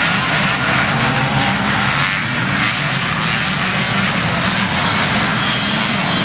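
Motocross bike engines running on the track, a loud steady drone without a break.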